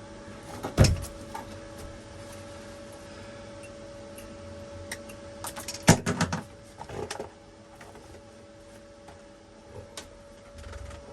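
Sharp metallic knocks and clatter of tools and sheet metal being handled, one loud knock about a second in and a cluster of several around six to seven seconds, over a steady hum.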